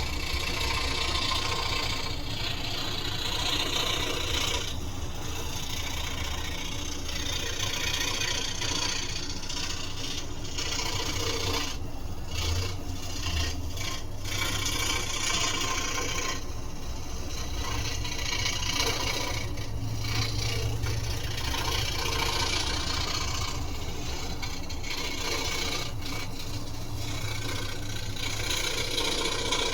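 Scroll saw running and cutting wood with a continuous rasp over the low hum of its motor. The rasp dips briefly now and then.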